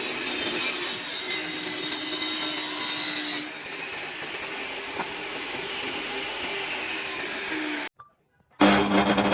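A power tool working wood: a steady motor note over a rasping noise, which eases a little about a third of the way in. It breaks off abruptly near the end, then a brief, louder burst of tool noise follows.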